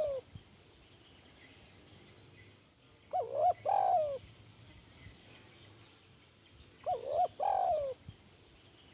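Spotted dove (tekukur) cooing: two full phrases about four seconds apart, each two short coos followed by a longer coo that falls in pitch, with the end of an earlier phrase right at the start.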